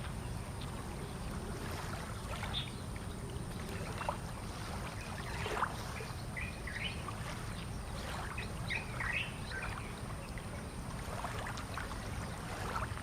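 Birds chirping now and then over a steady low rumble of harbour ambience.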